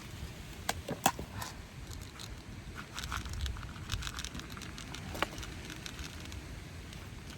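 Scattered raindrop taps and crackles, the sharpest about a second in, over a low rumble of wind on the microphone.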